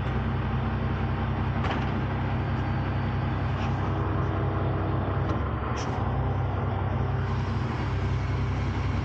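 Heavy diesel truck engines running steadily under the winching, with a few light clicks.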